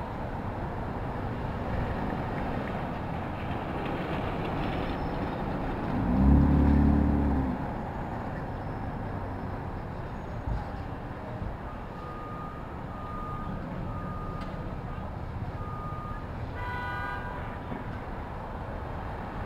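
City street traffic with steady passing-vehicle noise. About six seconds in, a low horn blast sounds for about a second and a half. Later come a run of four short high beeps about a second apart and a brief higher tone.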